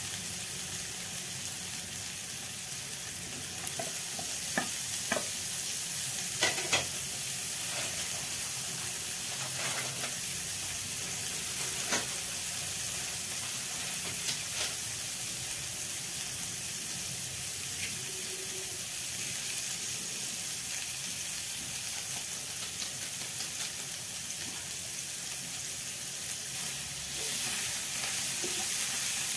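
Chopped onion, tomato and green chilli sizzling in butter in a non-stick frying pan, a steady hiss. A spatula clicks against the pan a few times in the first half, and the stirring gets a little louder near the end.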